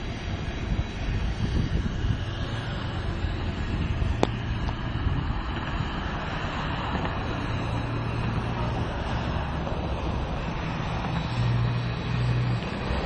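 Steady rumble of a moving train heard from on board, with a low hum that swells a couple of times. There is a single sharp click about four seconds in.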